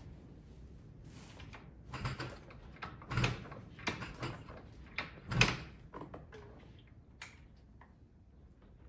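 A series of irregular knocks and clunks, louder through the middle and fading to a few faint ticks near the end, with no engine running.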